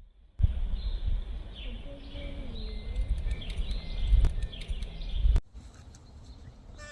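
Outdoor ambience: birds chirping over a steady low rumble. It cuts off suddenly about five seconds in, leaving a quieter background.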